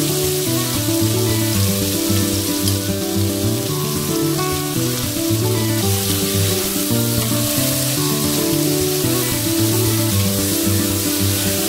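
Marinated chicken pieces sizzling as they fry in a non-stick wok while being stirred, under background music with steady held notes.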